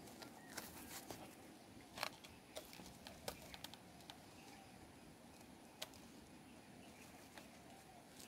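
Rope being wound and pulled tight around a wooden pole in a lashing, heard as faint rustling with a handful of sharp, scattered clicks, the loudest about two and three seconds in.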